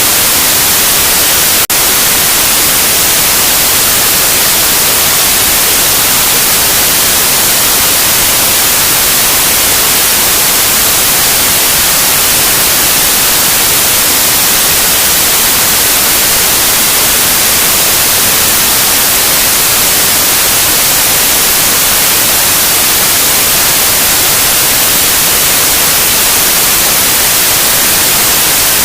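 Loud, steady white noise: an even hiss across all pitches, strongest in the highs, with a momentary dropout a couple of seconds in.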